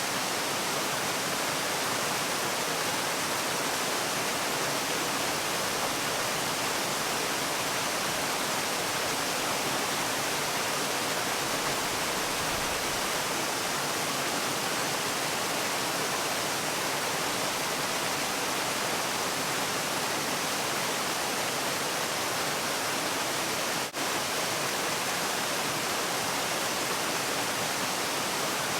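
Waterfall: a steady, even rush of falling water, with a split-second drop-out about five seconds before the end.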